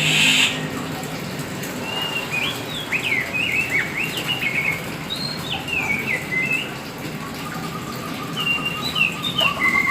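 Black-form Oriental magpie-robin (kacer hitam) singing: quick whistled notes sliding up and down, in a bout of phrases in the first half and another near the end. A short hiss at the very start is the loudest moment.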